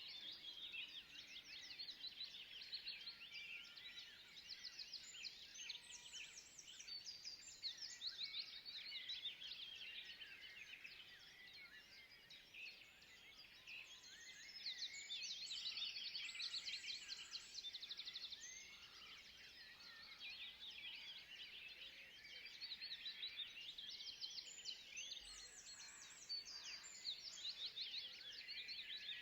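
Dense chorus of many small birds chirping and trilling without a break, swelling louder around the middle and again near the end.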